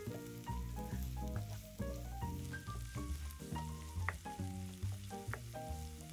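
Food sizzling as it fries in oil, under background music with a steady bass line and a melody of short held notes.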